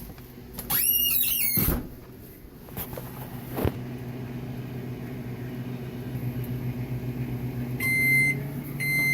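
Microwave oven running with a steady low hum, then two long high beeps near the end as the cook cycle finishes. A short scraping rustle comes about a second in.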